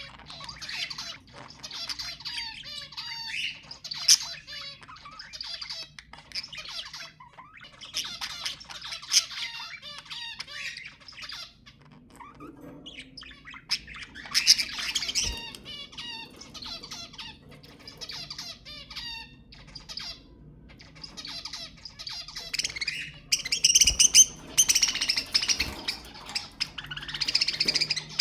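Budgerigars chattering and warbling in fast, squawky chirps that come in bursts with short pauses, loudest in the last few seconds.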